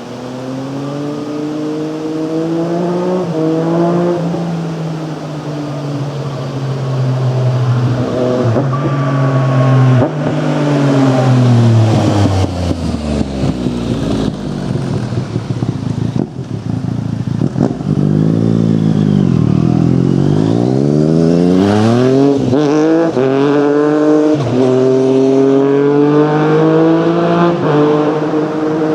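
Yamaha MT-09's three-cylinder engine through a full Akrapovic carbon exhaust, its pitch repeatedly rising and falling as it revs up and eases off. About halfway through the pitch sinks low, then climbs steeply again.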